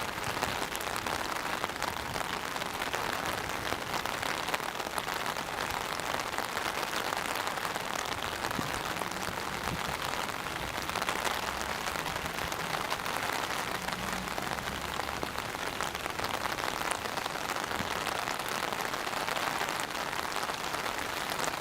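Rain falling steadily on a hard surface, an even hiss of many drops.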